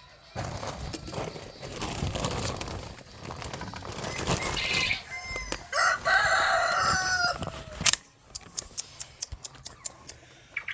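Backyard chickens: scuffling and wing flapping for the first several seconds, then a rooster crows once about six seconds in, a long call lasting over a second.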